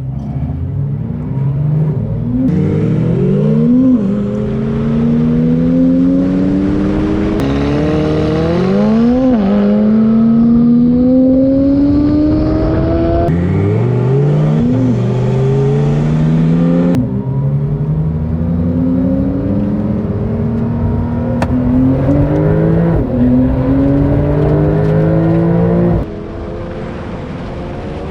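Supercar engine at full throttle in a roll race, its pitch climbing through each gear and dropping sharply at each upshift, about five times. The sound changes abruptly a few times, as if cut between different recordings.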